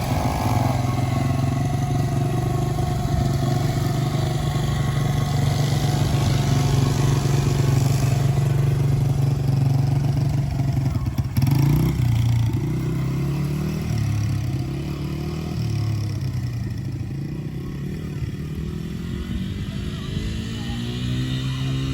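Honda XR100R dirt bike's single-cylinder four-stroke engine running at a steady pitch, then from about halfway its revs rising and falling in steps, with a rising rev near the end.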